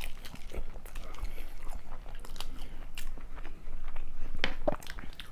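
A man biting into and chewing a forkful of lasagna close to the microphone: wet, irregular clicking mouth sounds.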